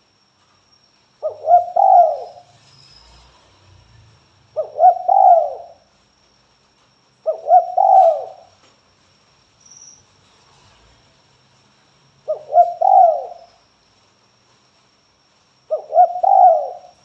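Spotted dove cooing: five calls of about a second each, every one the same short phrase of quick notes, spaced a few seconds apart.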